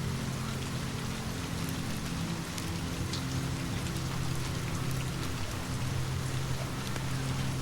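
Steady rain falling, with scattered sharp fireplace crackles and a steady low hum underneath.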